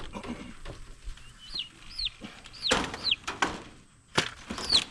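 A handled turkey giving a run of short, high calls that fall in pitch, about six of them, mixed with a few sharp knocks and scuffles.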